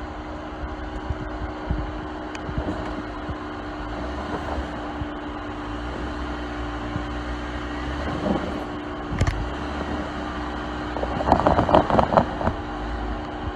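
Off-road vehicle engine running steadily as it crawls over rock. About eleven seconds in there is a louder spell of rapid pulsing, the engine working harder as the tires fight for grip on the ledge.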